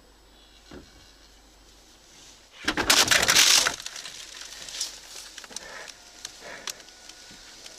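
A sudden loud crash, a noisy rush full of clicks lasting about a second, comes a little under three seconds in. Scattered knocks and clicks follow.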